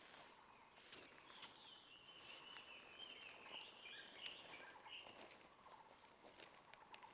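Near silence outdoors, with a faint bird's warbling call running for about four seconds in the middle and a few faint ticks.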